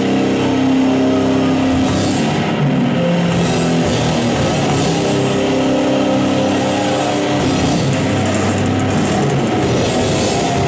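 Loud live rock music: a band playing with guitar and drum kit, chords held for a second or more at a time over steady drumming.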